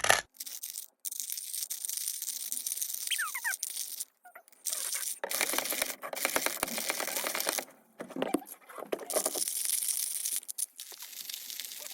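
Hand-cranked manual coffee grinder crushing whole coffee beans: a gritty, crackling crunch in several spells with brief pauses between turns.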